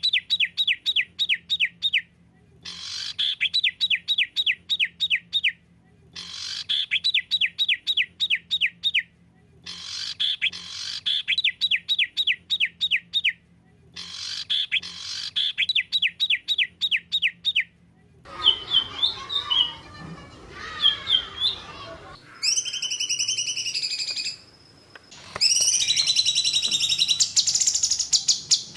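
Recorded songbird 'tembakan' bursts: a rapid run of about a dozen quick descending notes, repeated five times with short pauses. After that come varied chirps and calls, and then a fast, high continuous trill near the end.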